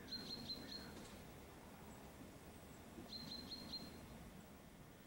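A small songbird calling: a short phrase of about four quick high notes, given twice about three seconds apart, over a faint outdoor background.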